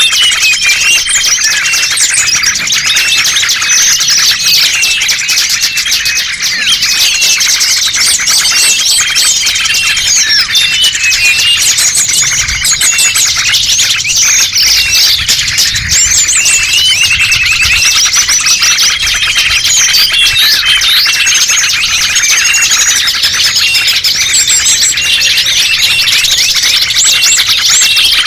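Dense, loud chorus of many small birds chirping and trilling over one another without a break: a bird-lure (pikat) recording made to draw small wild birds in.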